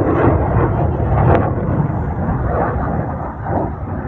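Fighter jet engine noise: a loud, fairly steady jet rumble from the aircraft flying past at a distance.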